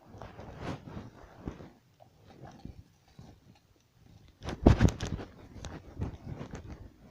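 Irregular crunching and rustling steps of a player moving over rough ground, with a louder burst of crunches about four and a half seconds in.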